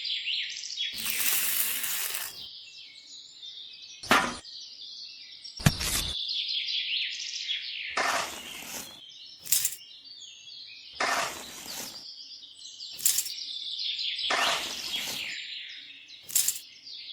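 Many small birds chirping and twittering continuously. About ten sharp knocks or cracks are scattered through it, and several last about a second as noisy rushes.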